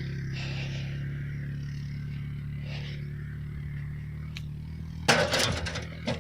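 Tractor engine running steadily at a constant speed, with a brief loud noisy burst about five seconds in.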